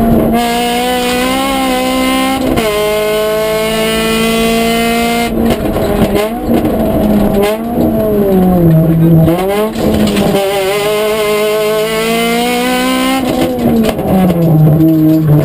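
Honda Civic rally car's engine heard from inside the cockpit, pulling hard through the gears: the revs climb, break off at each gear change and climb again several times. The revs drop twice on downshifts and lift-offs, about eight seconds in and again near the end.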